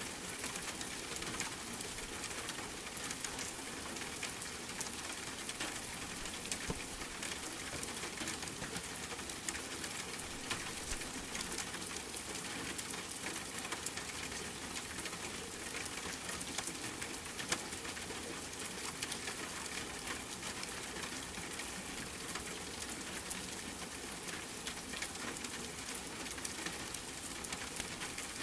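Steady rain with the small, scattered crackles of a wood fire, at an even level throughout.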